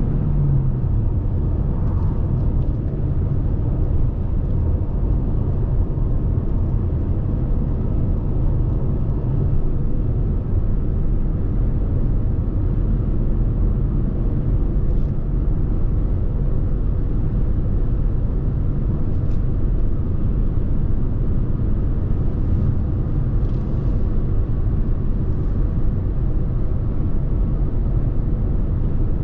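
Lexus NX 300h hybrid driving at motorway speed: steady low road and wind rumble from the tyres and airflow. A falling engine or motor tone dies away about a second in.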